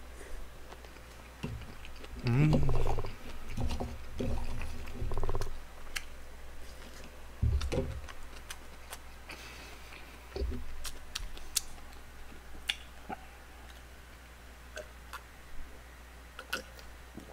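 Close-miked chewing and mouth sounds of a person eating, with a few short low murmurs, scattered faint clicks, and two soft thumps about seven and a half and ten and a half seconds in.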